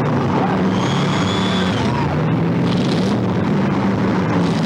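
Demolition derby car engines running and revving together, their pitch wavering up and down. A high steady squeal sounds for about a second near the start.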